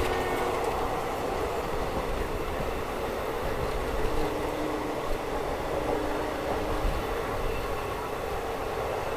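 Steady running noise of a moving passenger train, an even rumble of wheels on the rails, with two faint brief whines around the middle.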